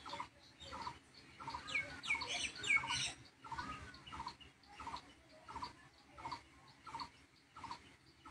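Birds calling: a short call repeated about twice a second, with a brief run of quick higher chirps about two seconds in.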